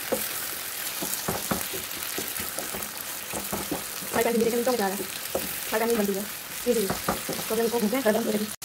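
Okra, onions and meat masala sizzling in oil in a non-stick pan while a wooden spatula stirs and scrapes through them, with short knocks of the spatula against the pan. About halfway through, a voice comes in over the frying.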